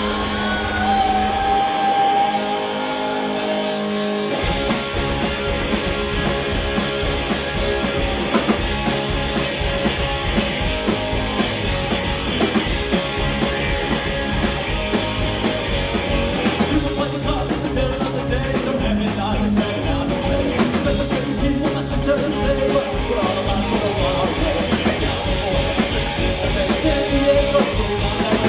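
Live rock band playing an instrumental passage with electric guitar, bass and drum kit. The low end and drums drop out briefly near the start, then the full band comes back in about four seconds in.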